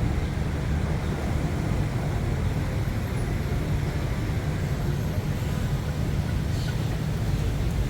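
Steady low rumble of city traffic, an even din with no single event standing out.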